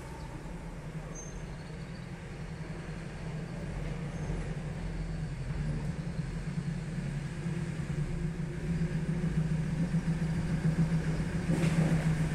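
A motor vehicle's engine running nearby, a steady low hum that grows gradually louder.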